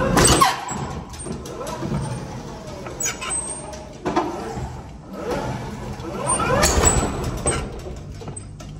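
Forklift running during pallet unloading, its engine revving up twice with a rising pitch, amid scattered knocks and clatter.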